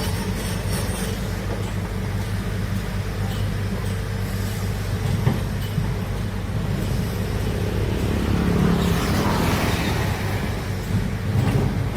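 Heavy diesel earthmoving machine, such as a large excavator, with its engine running steadily at a low hum. A louder rushing swell comes about nine seconds in.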